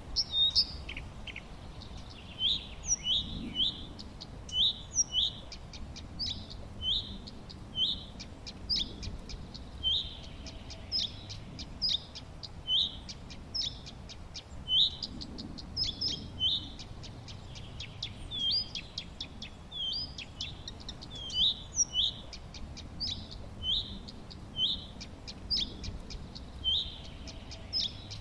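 Songbirds chirping: a steady run of short, hooked chirps, one or two a second, with quick high ticks between them over a faint background hiss.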